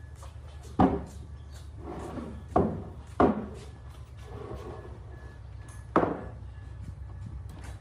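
Four sharp knocks on wood, irregularly spaced, each with a short ring after it, over a steady low hum.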